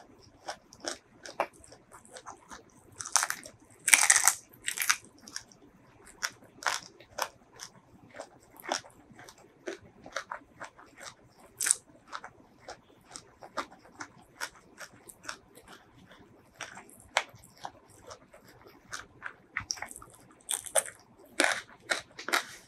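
Close-miked eating of a spicy fried shrimp: a loud crunchy bite about four seconds in, then irregular wet mouth clicks and crunches as it is chewed, with a run of louder crunches near the end.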